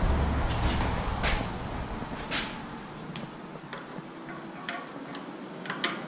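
Irregular light clicks and taps of hand tools being worked on a bicycle's front brake, about seven spaced over several seconds. A low rumble fades out in the first two seconds.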